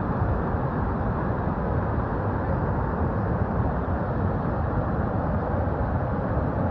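Steady rushing noise of a large waterfall, even in level, with most of its weight in the low and middle range.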